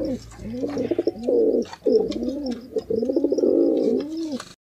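Pigeon cooing: a run of low, repeated coos, each phrase rising and falling in pitch, stopping abruptly near the end.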